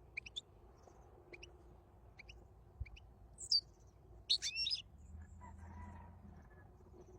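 European goldfinch calling: a few short, high chirps spaced apart, then a louder call and a quick twittering phrase about four seconds in.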